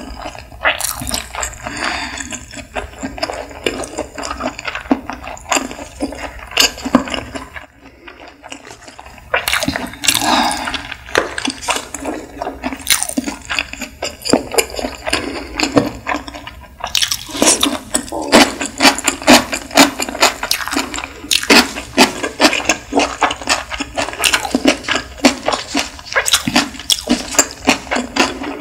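Close-up chewing of sushi: a dense run of wet clicks and smacks from the mouth, with a short pause about eight seconds in.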